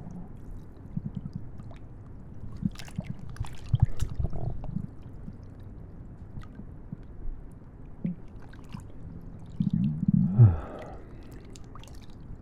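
Close-up stomach sounds: irregular wet gurgles and squelches, with a louder gurgle about ten seconds in that drops in pitch.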